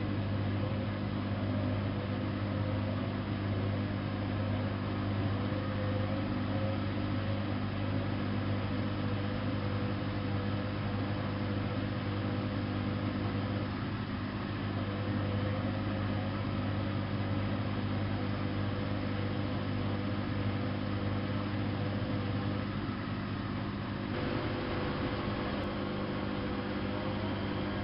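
Bosch WFK 2431 front-loading washing machine running with a steady motor hum and drum noise. Near the end a whine rises in pitch as the motor speeds up.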